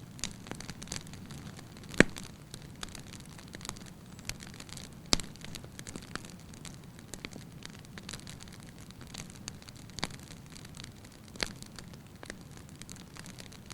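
Wood fire burning in a fireplace: a steady low rushing of flames with irregular crackles and pops from the logs, the sharpest pops about two seconds in and about five seconds in.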